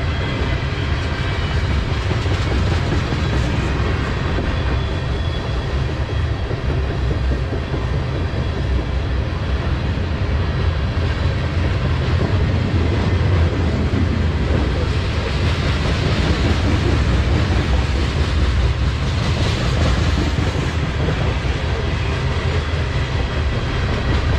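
Freight train of tank cars rolling past at close range, its steel wheels running on the rails in a steady low rumble.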